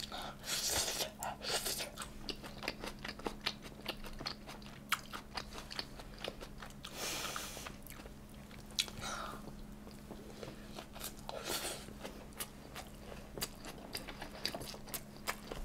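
A person eating close to the microphone: many quick, wet chewing clicks and smacks with a few short breathy rushes of noise, over a faint steady low hum.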